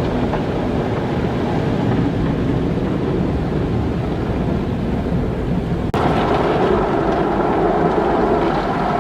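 Automatic car wash running: a steady rumble of machinery and spraying water. About six seconds in the sound breaks off abruptly and switches to a different, humming stage of the wash.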